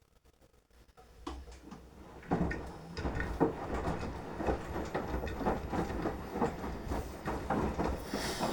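Beko washing machine drum starting to turn and tumble the wet load in the wash phase: a low rumble with irregular knocks and clatter that sets in after a second of near quiet and grows louder about two seconds in.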